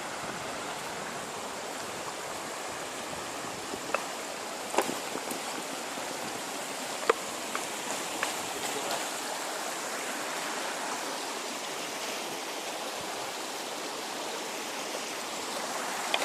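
River water rushing steadily over rocks, with a handful of sharp clicks and knocks about four to eight seconds in.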